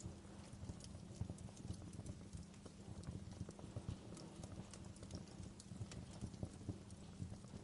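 Wood fire crackling in a fireplace: a soft low rumble of flames with many small irregular pops and snaps.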